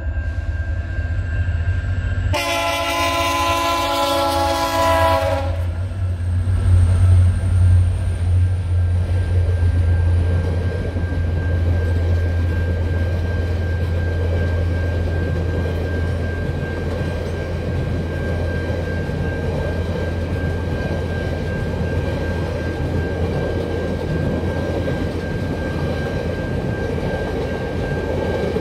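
VIA Rail's Canadian passenger train passing. The locomotive horn sounds a chord of several tones, loudest for about three seconds near the start. Then the diesel locomotives rumble by heavily and the passenger cars roll past steadily, with a thin steady whine throughout.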